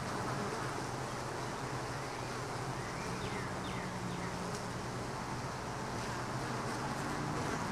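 Many honey bees buzzing together in a steady low hum.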